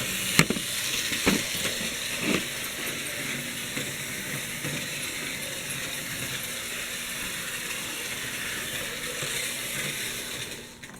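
Antique Märklin electric model train running around the track: a steady whirring, rattling run of its small motor and metal wheels, with a few sharp clicks in the first couple of seconds.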